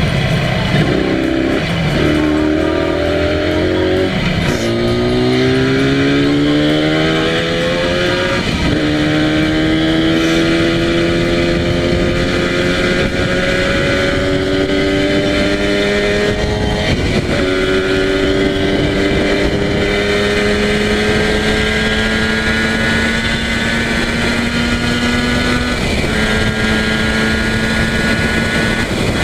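Yamaha TZR250 (1KT) two-stroke parallel-twin engine accelerating hard through the gears: the engine pitch climbs, drops at each upshift and climbs again, about five shifts, each gear pulling longer until it settles into a nearly steady highway cruise.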